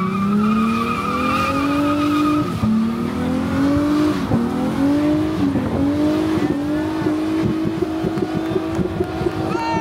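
A tuned Japanese performance car's engine revving up hard while its tyres squeal, the wavering squeal dying away after about two seconds. The engine then holds at high revs, stepping up in pitch, with a rapid stuttering crackle near the end.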